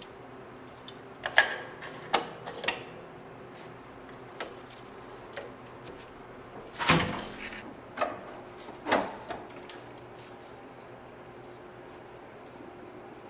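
A handful of scattered knocks and clatters from hard objects being handled, about six in all, with the longest near the middle, over a faint steady hum.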